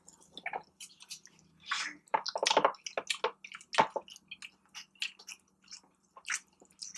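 People chewing and biting into breaded boneless chicken wings: a run of irregular short mouth clicks and smacks, loudest a little past two seconds and again near four seconds in.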